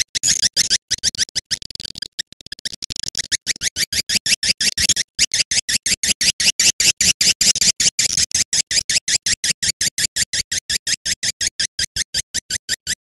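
Recorded swiftlet calls played as a lure: a fast, steady train of short high chirps, about six a second, with a brief break about two seconds in and another near five seconds.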